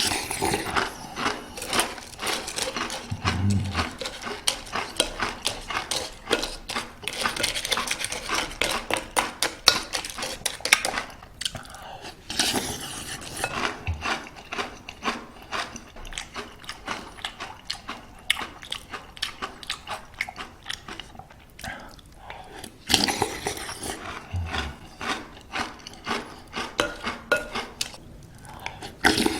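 Post granola being crunched and chewed close to the microphone, a dense run of irregular crackles, with a spoon clinking against the bowl in a few louder bursts.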